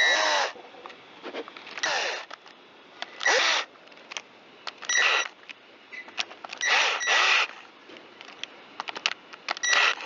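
A small electric screwdriver runs in about six short whirring bursts, each about half a second long with a high whine, driving in the screws that hold the chainsaw's intake cover.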